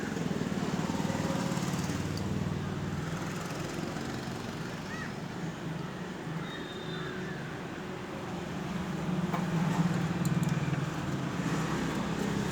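A motor engine running steadily with a low drone, growing louder about nine seconds in and easing again near the end.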